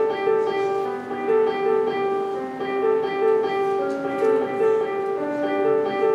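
Solo piano playing a simple, repetitive piece: a figure of short repeated notes in the middle register in a steady rhythm, over a slower lower line.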